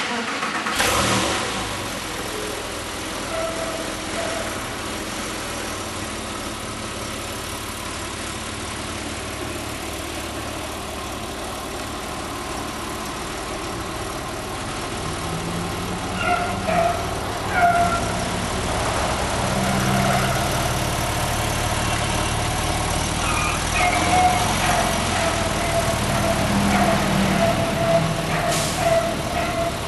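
Porsche 997 Carrera S's 3.8-litre flat-six running through its exhaust, idling steadily after a sudden start about a second in. In the second half it runs somewhat louder, with several short throttle blips.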